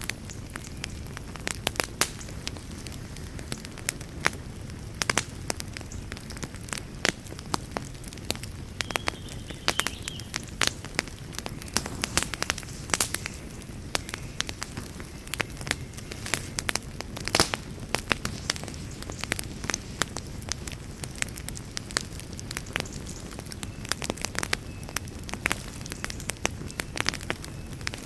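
Wood campfire crackling, with irregular sharp pops and snaps over a steady low rush. A few louder pops come about halfway through.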